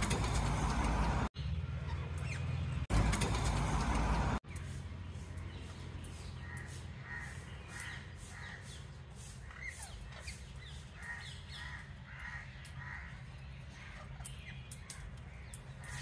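Loud rumbling noise in short stretches that break off abruptly, then quieter harsh bird calls repeating about twice a second for several seconds.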